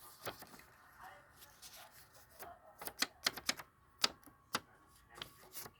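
A run of sharp, irregular clicks and taps, sparse at first and then about a dozen in quick succession in the second half.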